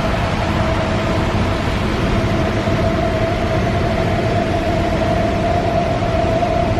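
Paint-shop air equipment running: a steady, loud rush of air with a constant mid-pitched hum.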